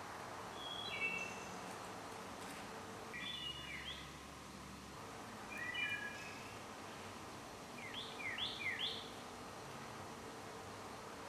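A songbird singing short phrases of clear whistled notes, four times about every two and a half seconds, the last phrase three quick sweeping notes, over a steady outdoor hiss.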